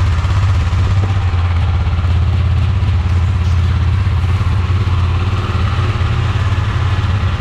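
KTM Adventure motorcycle's single-cylinder engine idling steadily at an even, unchanging pitch.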